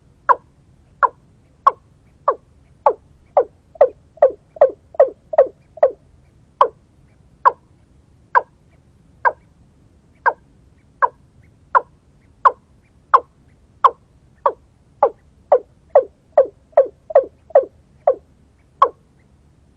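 White-breasted waterhen (kareo) call: a long series of short, sharp, falling notes, about one to two a second, quickening into faster runs about four seconds in and again near the end.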